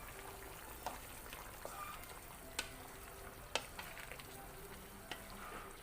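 Pot of pochero broth with vegetables bubbling faintly, and a cooking spoon clicking against the pot four or five times as the ingredients are stirred in.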